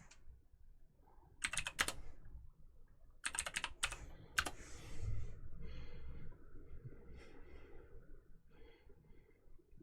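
Computer keyboard typing in two quick bursts of keystrokes, one about a second and a half in and another from about three to four and a half seconds in, followed by fainter scattered sounds.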